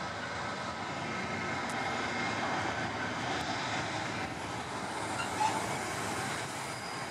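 Freight train's wagons rolling past on the rails, a steady rush of wheel and rail noise with faint high steady tones running through it and a short louder knock about five seconds in.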